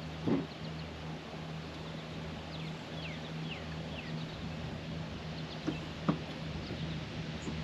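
Birds chirping: a run of short, falling chirps around the middle, over a steady low hum and outdoor background noise, with a few soft thumps near the start and about six seconds in.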